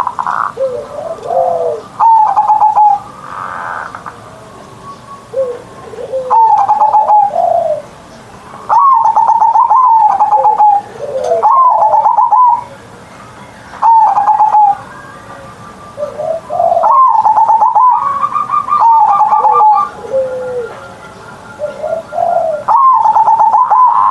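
Zebra dove (perkutut) singing: loud phrases of rapid rolling coos, repeated every second or two, each closing on lower, falling notes.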